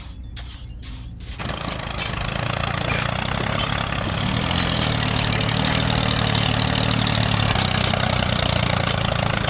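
An engine starting up about a second and a half in, then running louder and settling into a steady low drone.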